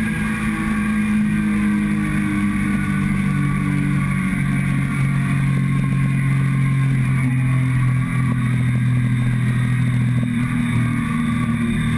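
Motorcycle engine running under way, picked up close from a camera mounted on the fuel tank; the engine note holds fairly steady, with small shifts in pitch about four seconds in and again near the end.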